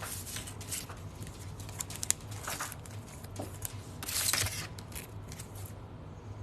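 Plastic crinkling and rustling with small clicks as trading cards are handled and slid into protective plastic sleeves, with a longer, louder rustle about four seconds in.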